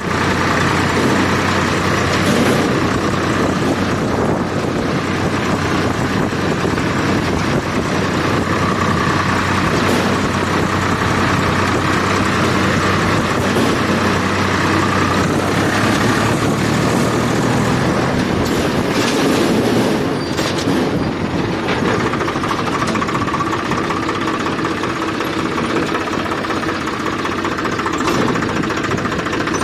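Tractor diesel engine running steadily, with a fast, even rattle and a low hum that eases slightly about twenty seconds in.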